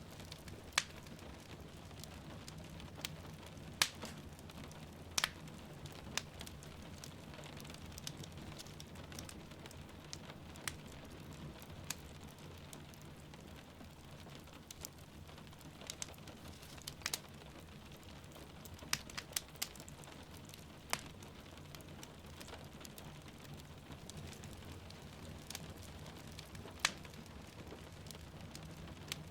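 Wood fire crackling, with sharp irregular pops every second or two, over a steady hiss of falling rain.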